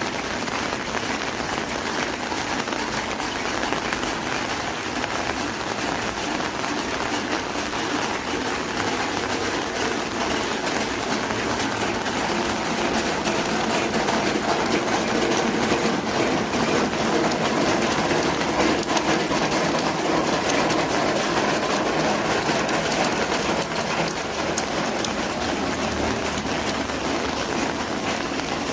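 Rain pattering on an umbrella, a dense, steady hiss of many small drop ticks. A low rumble swells through the middle and fades near the end.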